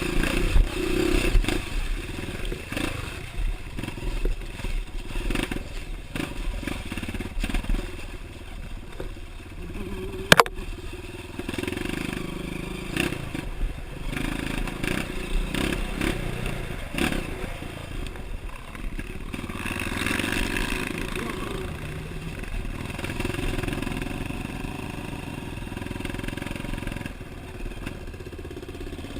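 Honda CRF dirt bike engine running with its revs rising and falling, with clattering over rough ground. A single sharp knock comes about ten seconds in.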